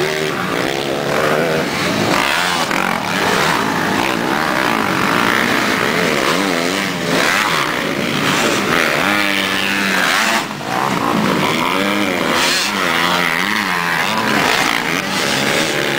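Motocross motorcycle engines revving, several at once, their pitch rising and falling again and again.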